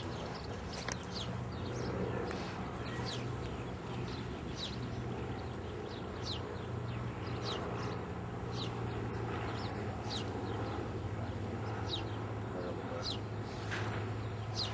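A small bird chirping over and over, short high notes that fall in pitch, about one a second, over a steady low hum.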